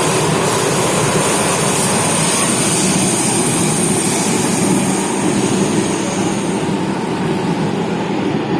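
Athens Metro Line 3 train running through the tunnel, heard from inside the carriage: a steady rumble of wheels and running noise with a thin high whine that fades out about five seconds in.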